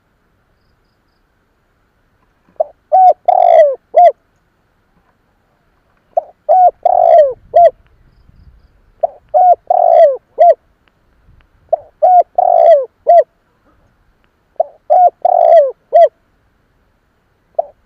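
Spotted dove (cu gáy) cooing, the song of a decoy bird used to provoke wild doves: each phrase is a few short coos around one longer falling coo. The phrase repeats about every three seconds, five times, with a sixth beginning at the very end.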